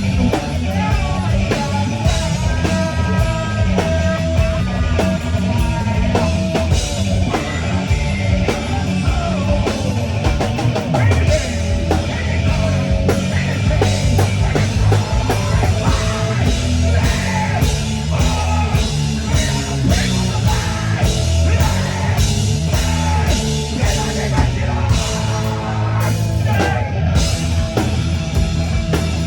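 Rock band playing a song live, with drum kit, guitar and singing.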